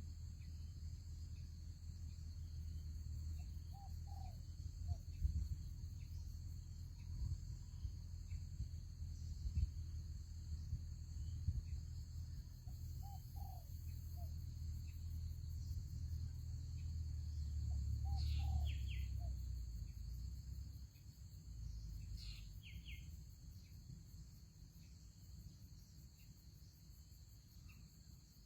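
Spotted doves cooing softly a few times in short groups of low notes, over a steady high insect drone. A couple of brief higher chirps from another bird come about two-thirds of the way through, and a low rumble fades out past the middle.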